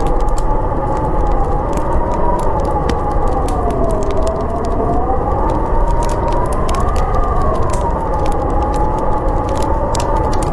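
Howling blizzard wind, its whistling pitch slowly rising and falling over a steady rush, with a wood fire crackling in sharp, irregular pops throughout.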